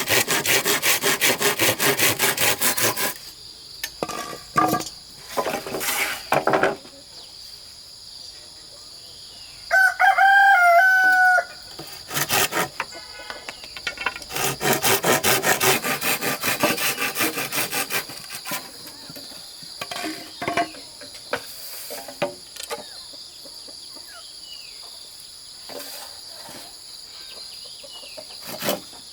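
A hand saw cutting in fast, even strokes for about three seconds, then again from about a third to two-thirds of the way in. A rooster crows once near the middle, the loudest sound. A steady high insect drone sits underneath.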